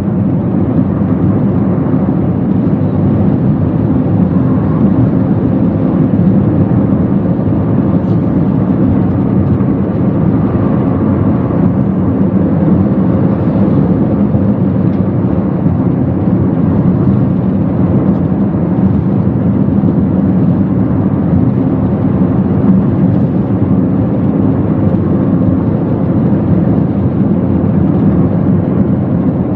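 Steady low rumble of a Toyota Wigo's engine and tyres while driving, heard from inside the car's cabin.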